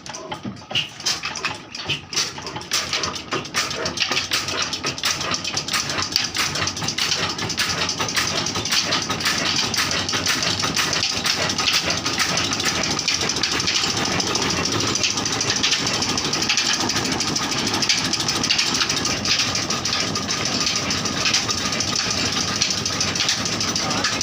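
Old black stationary engine being cold-started, with uneven knocks at first that build over the first few seconds into a steady, rapid running beat.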